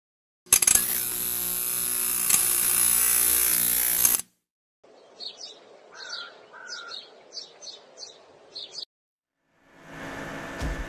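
A loud, harsh noise for about four seconds, then a string of short high bird chirps over a faint hiss, then a faint steady background with a low thump near the end.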